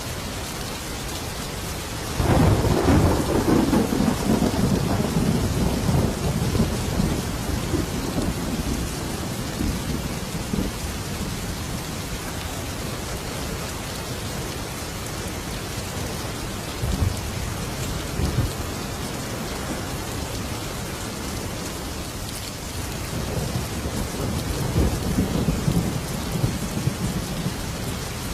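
Thunderstorm: steady rain with a loud roll of thunder breaking about two seconds in and rumbling away over several seconds, a couple of short low rumbles in the middle, and another rumble swelling and fading near the end.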